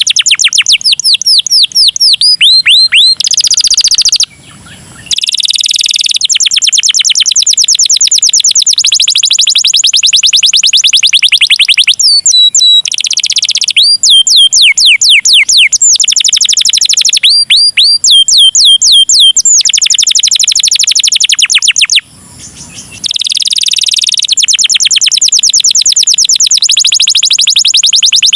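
Domestic canary singing loudly: long runs of rapid high trills and repeated swooping notes, with short pauses about four seconds in and again around 22 seconds.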